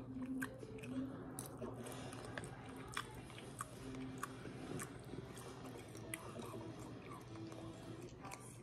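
A person chewing a mouthful of mandarin orange chicken and rice close to the microphone, faint, with scattered small clicks throughout.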